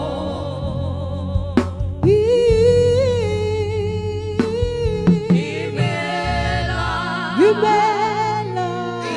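Live gospel praise music: a singer holding long, wavering notes over sustained keyboard and bass, with a few sharp drum hits.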